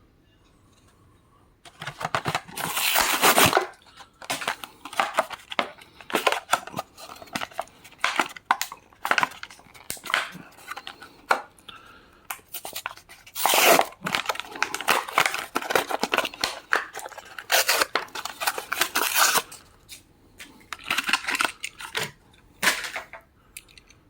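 Cardboard and plastic blister packaging of a Matchbox die-cast car being torn and pulled open: a long run of irregular tearing and crinkling, with louder rips about two seconds in, around halfway and a few seconds later.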